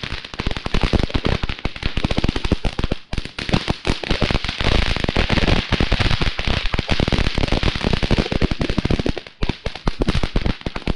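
Crackle Star crackling firework going off: a dense, rapid stream of sharp crackles over a steady hiss, with brief lulls, stopping abruptly near the end. It is a really quite noisy one.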